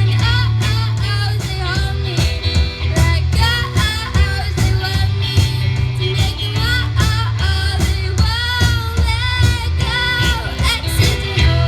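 Live rock band playing a song: drums, bass and electric guitar under a wavering female lead vocal.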